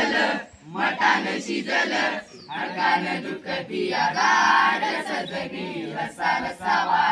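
A group of young voices chanting together in unison, in short phrases with brief breaks between them.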